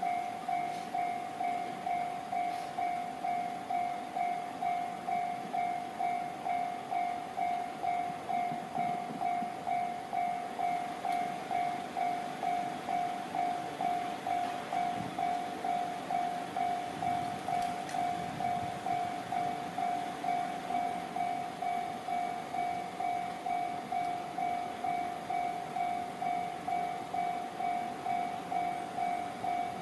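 Japanese railway level-crossing alarm ringing: an electronic bell tone repeating evenly about one and a half times a second, over faint low train rumble.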